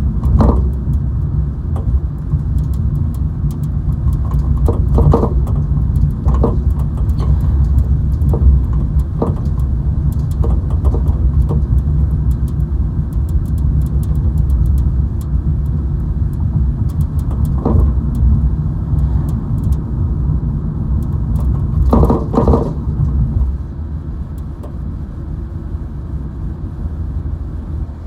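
Car road noise heard from inside the cabin: a steady low rumble of tyres and engine, with scattered small knocks and rattles. The rumble drops off noticeably near the end.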